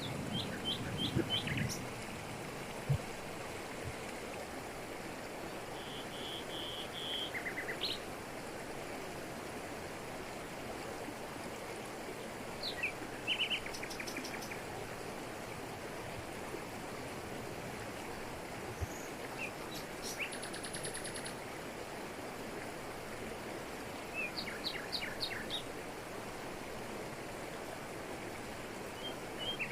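Steady rush of a waterfall falling over rocks in tropical forest. Over it, birds call now and then: a quick run of chirps at the start, a short trill around six seconds in, and scattered high calls later.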